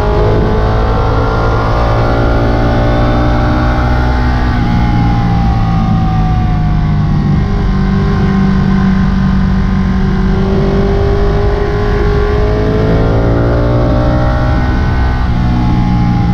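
Sportbike engine at riding speed, heard from the rider's position. Its pitch climbs under throttle for the first few seconds, falls away over the next few, holds steady, then climbs again near the end.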